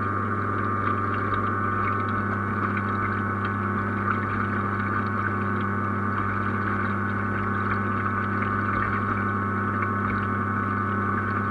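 Steady machine hum with a constant higher whine over it and faint scattered ticks, holding level throughout.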